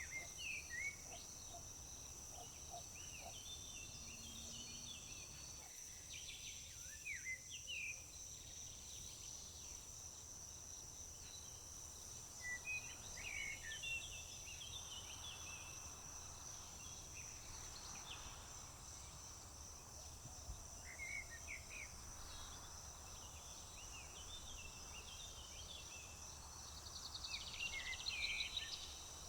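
Wild birds calling and singing in short scattered phrases over a steady high-pitched insect trill, with a busier flurry of calls near the end.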